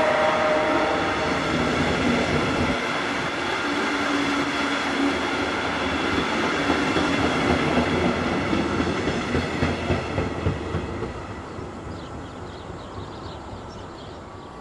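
Double-deck electric passenger train running past and receding, its wheels clacking over the rail joints. The noise fades away in the last few seconds.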